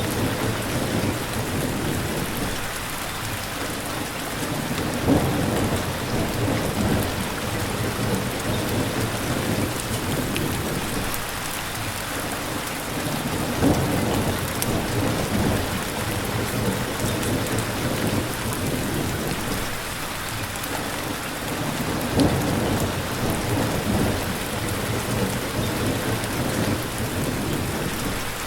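Steady rain with low, rolling thunder rumbling underneath, and a few short louder spots about 5, 14 and 22 seconds in.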